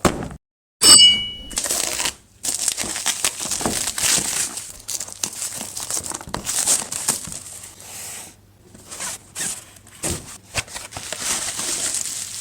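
Packaging being handled and opened: continuous crinkling, rustling and tearing of plastic and card, with a short bright ding about a second in.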